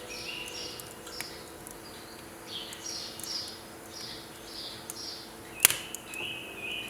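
Small birds chirping outdoors: a steady run of short, quick falling notes repeated over and over. About two-thirds of the way through, a single sharp crack from the burning firewood stands out as the loudest sound.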